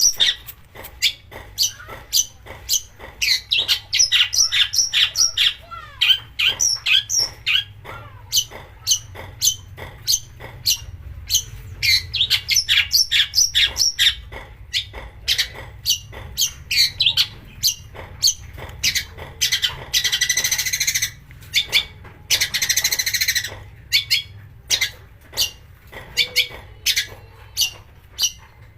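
Long-tailed shrike (cendet) singing: a rapid run of short, sharp notes and chattering phrases, broken by two longer harsh rasping bursts about two-thirds of the way in.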